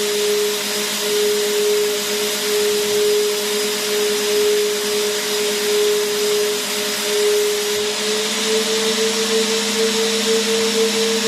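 Vacuum cleaner motor running continuously: a steady rushing hiss with a high motor hum. About eight seconds in, the hum steps up a little in pitch and takes on a slight pulsing.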